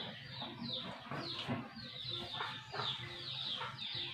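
Chickens' chicks peeping in the background: a continuous stream of short, falling chirps, several a second.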